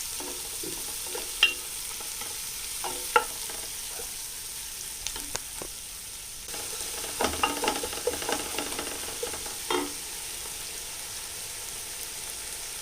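Thinly sliced onions frying in hot oil in a pan, sizzling steadily, while a spoon scrapes and knocks against the pan as they are stirred, with a few sharp clinks and a busier spell of stirring about seven seconds in.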